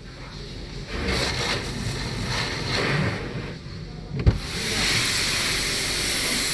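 Rumbling, gusty noise, then a sharp knock a little past the middle, followed by a steady hiss of water spray from a car-wash hose.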